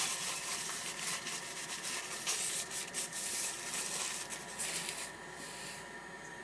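Irregular scratchy rubbing and rustling, many short strokes for nearly six seconds, then it stops.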